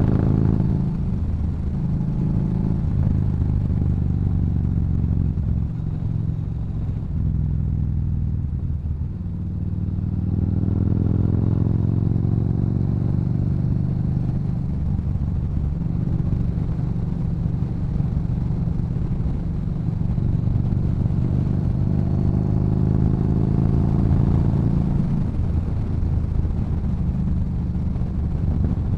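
Yamaha Bolt's air-cooled V-twin running through a Cobra aftermarket exhaust while riding. The engine note drops off about a second in, climbs again under throttle, holds at a steady cruise, and rises and falls once more near the end.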